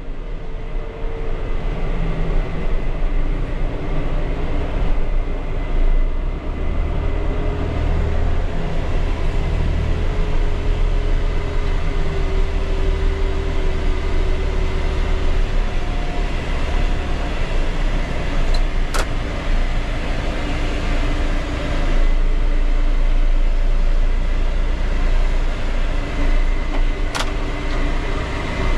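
Tractor engine running steadily under load, with a faint whine that wavers slightly in pitch. Two sharp clicks come through, one a little past halfway and one near the end.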